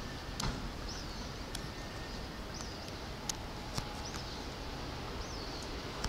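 Small birds giving short chirps every second or so over a steady, faint background of city noise, with a few faint clicks.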